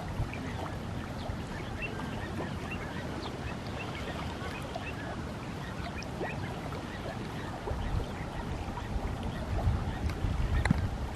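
Many short bird chirps and calls scattered over a steady background hiss. From about two-thirds of the way in, gusts of wind rumble on the microphone.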